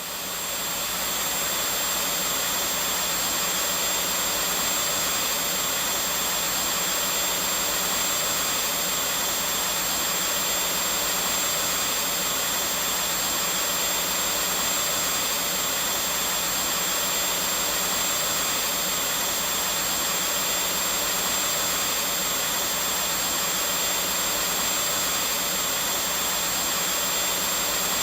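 Vacuum cleaner running steadily: an even rushing whoosh of air with a low motor hum and a thin high whine. It swells up in the first second and then holds level.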